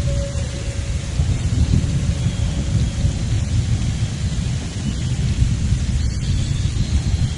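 Loud, uneven outdoor rumble, deep and gusty, with a fainter hiss above it. A faint steady hum fades out about three seconds in.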